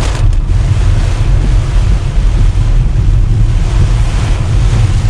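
Very heavy rain pelting a moving car, with a loud, steady deep rumble of tyres on the wet road and cabin noise underneath.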